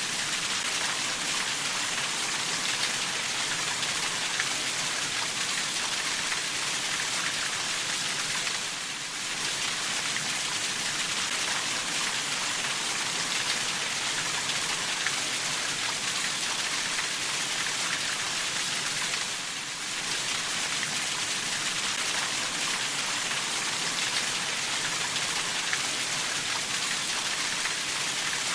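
Steady rainfall: a dense, even hiss of drops with faint individual drop ticks, softening briefly twice.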